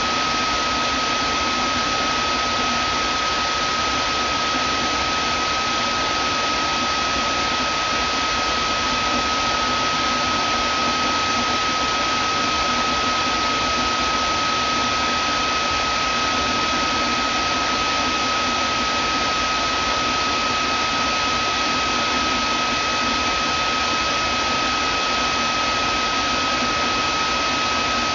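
Vacuum cleaner motor running steadily: a constant rushing hiss with a steady high-pitched whine through it.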